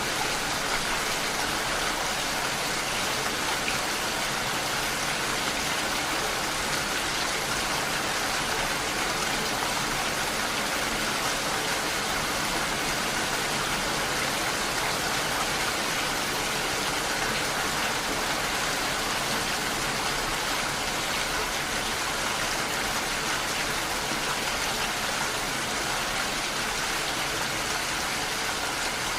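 Steady rain falling, an even rush of many drops that keeps on without let-up.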